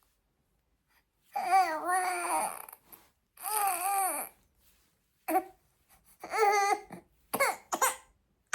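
Five-month-old baby fussing after being laid on her back: two wavering cries of about a second each, then three shorter whimpering cries, building toward full crying. She cries whenever she is put down rather than held upright.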